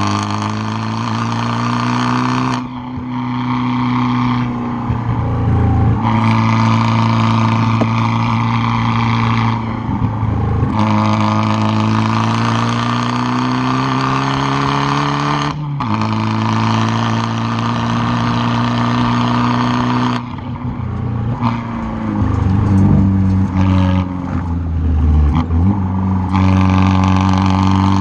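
Straight-piped exhaust of a tuned 2013 Fiat 500 Abarth's 1.4-litre turbocharged four-cylinder, heard right at the tailpipe. The engine pulls hard through the gears, its pitch climbing steadily and then dropping sharply at each shift, several times. Near the end the throttle comes on and off in quick choppy bursts, as when braking and downshifting for corners.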